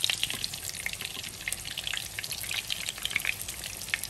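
Flour-and-egg-coated chicken breasts shallow-frying in hot oil in a frying pan: steady sizzling with many small crackles and pops.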